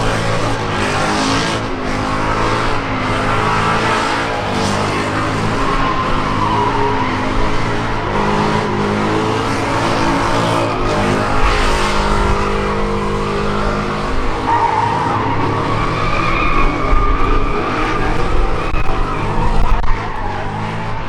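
Truck engine running hard with tires squealing and skidding on pavement, the sound of a burnout. A steady engine note sits under a wavering squeal that carries on all through.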